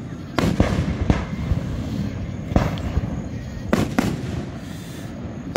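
Display firework shells going off over a lake: a series of sharp booms, three in the first second, one about two and a half seconds in and a close pair near four seconds, each followed by a low rolling echo.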